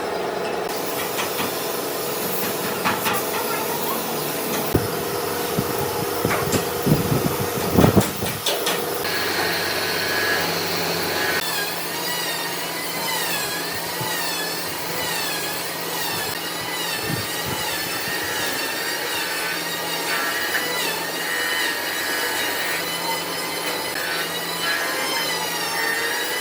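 A power tool cutting or grinding wood, running steadily, with a few knocks a few seconds in; from about nine seconds in its whine wavers up and down in pitch as the load changes.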